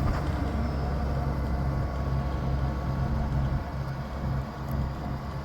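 John Deere combine's diesel engine running steadily with a low, even hum.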